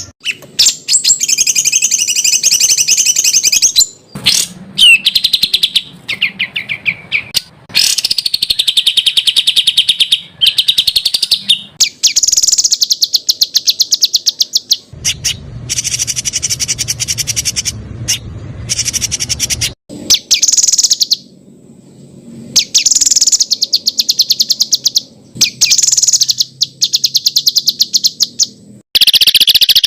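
A songbird singing fast runs of sharp, rapidly repeated high notes: 'tembakan' (shooting) phrases. They come in bursts of one to a few seconds, separated by short pauses.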